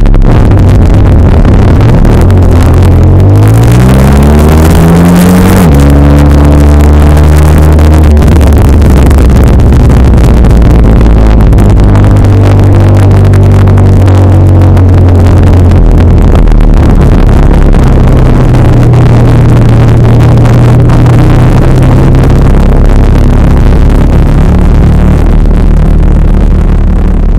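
Honda VFR1200F's V4 engine through an aftermarket DAM exhaust, heard on board while riding. The revs climb for about three seconds, then drop sharply at a gear change, after which the engine runs fairly steadily with a brief, milder rise and fall in the middle.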